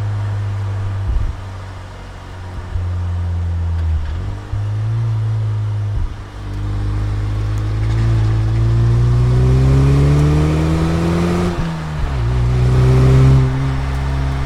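Saturn Sky Redline's turbocharged four-cylinder engine under way, with a few brief throttle dips, then pulling hard with its pitch rising for about five seconds. It drops suddenly at a gear change, then climbs again before dropping once more near the end.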